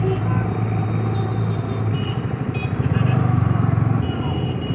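Motorcycle engine running steadily at low revs amid road traffic, with a couple of faint short horn toots.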